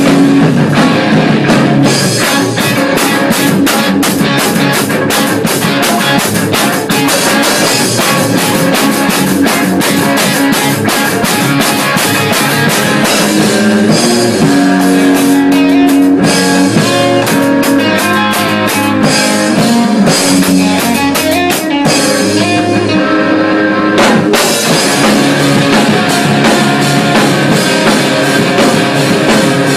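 Rock band playing: electric guitars over a drum kit, in the math rock / midwest emo style, with steady drum and cymbal hits. About two-thirds of the way through, the cymbals drop out briefly, then a hard hit brings the full band back in.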